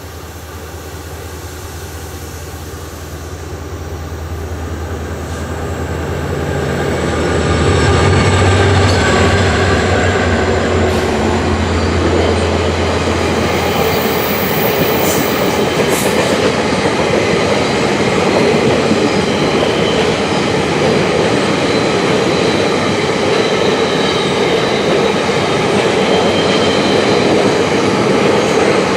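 EMD F40PH-2D diesel-electric locomotives approaching and passing, their low engine drone growing louder over the first several seconds. About halfway through, the drone fades into the steady rolling noise of passenger cars going by, with thin wheel squeal.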